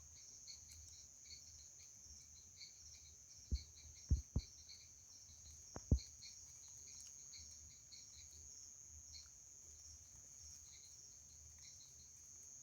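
Crickets chirping in a steady high chorus, with pulsed chirps repeating a few times a second. A handful of sharp clicks stand out from about three and a half to six seconds in.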